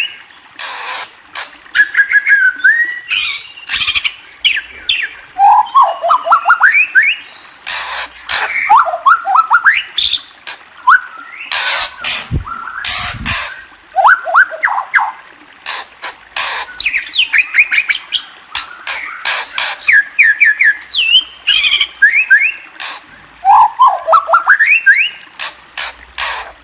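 A murai songbird singing: repeated quick runs of rising whistled notes, broken up with harsh, raspy calls.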